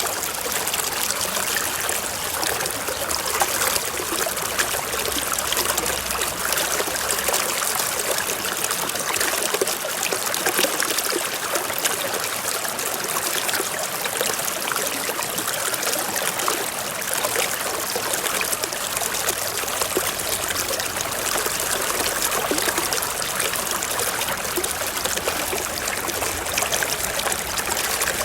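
A forest stream flowing over rocks: a steady, continuous rush of water with fine splashing and trickling.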